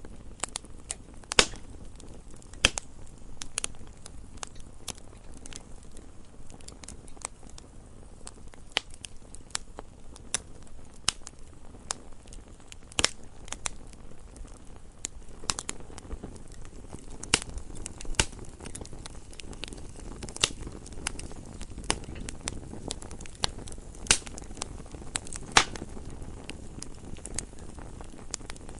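Wood fire burning with irregular crackles and sharp pops over a low, steady rumble of the flames, a few pops much louder than the rest.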